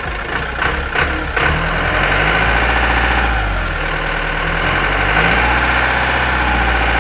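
Diesel engine running steadily, its note stepping up and getting louder about a second and a half in.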